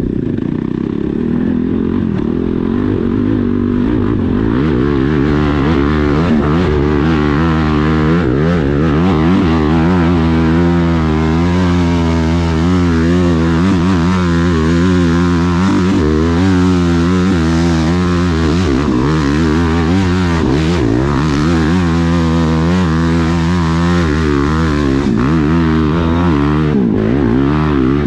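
Dirt bike engine running hard, its revs rising and falling over and over as the throttle is worked on a hill climb.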